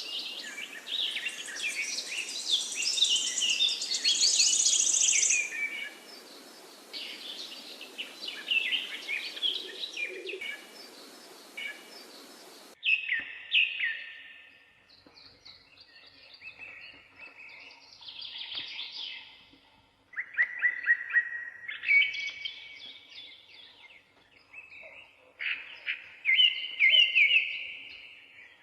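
Several songbirds chirping and singing over a steady background hiss. About thirteen seconds in, the recording cuts to a quieter scene where single birds sing short, separate phrases with pauses between.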